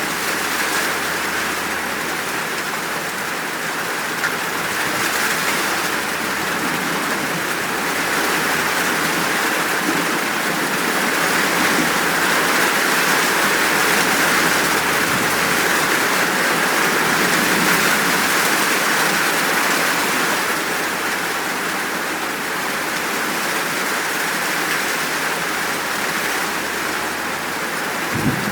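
Steady, full rainfall: an even hiss of a downpour that swells and eases a little in level. Thunder begins to rumble at the very end.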